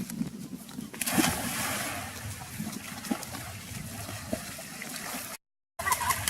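Water splashing and trickling, growing louder about a second in, with a few soft knocks; the sound cuts out briefly near the end.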